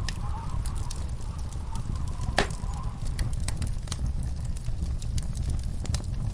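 Wood fire crackling in a fireplace: irregular small pops and snaps over a steady low rumble, with one sharper pop about two and a half seconds in and a faint wavering whistle during the first few seconds.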